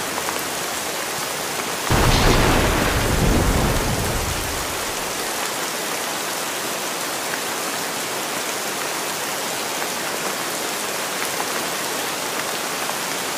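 Steady rain hiss, with a clap of thunder about two seconds in that rumbles and dies away over the next two to three seconds.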